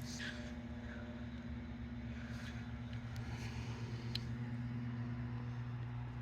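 Steady low mechanical hum, with a faint short click about four seconds in.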